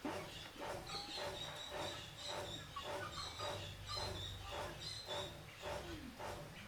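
Repeated hand strokes on steel, about two a second, each a scraping rasp with a faint high squeal, as when filing or hand-sawing a blade.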